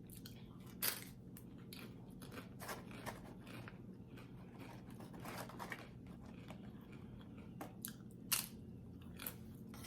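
A person chewing and biting crunchy food close to the microphone, with many small irregular crunches and two louder crunches, about a second in and near the end.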